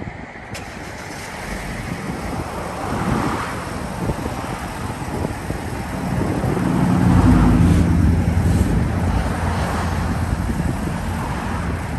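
A vehicle engine running as it is driven a short way, with wind buffeting the microphone; the engine grows loudest about seven seconds in. A sharp click sounds just after the start.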